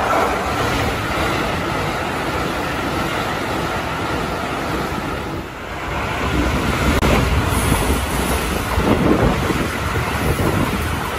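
Keikyu electric trains running through a station: a steady rumble of wheels on rail, then, after a short dip about halfway in, a louder close pass with rapid clattering of the wheels over the rail joints.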